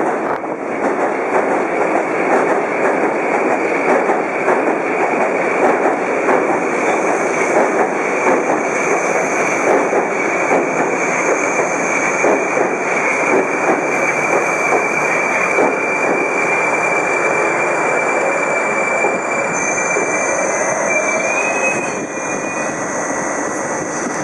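Moscow metro train running past on the rails: a loud, steady rumble of wheels and cars with a high, thin whine held over it, easing slightly near the end.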